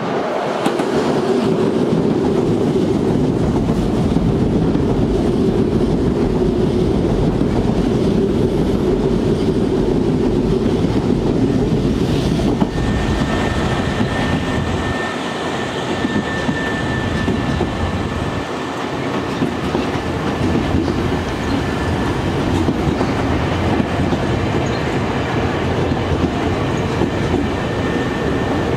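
Nankai electric train passing through a station at speed, a loud, continuous rumble of wheels on rails. A thin, steady high whine comes in about halfway through and holds.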